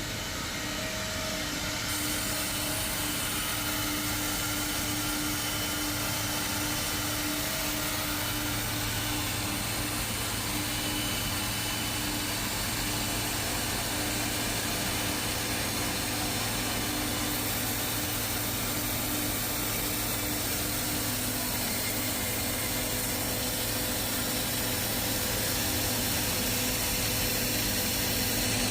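KW D1N CNC door-lock boring machine running with a steady whirring noise; a stronger low hum joins about eight seconds in.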